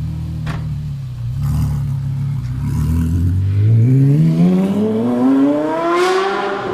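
Porsche Carrera GT's naturally aspirated V10 running steadily, then accelerating hard, its pitch climbing smoothly for about four seconds in one long pull.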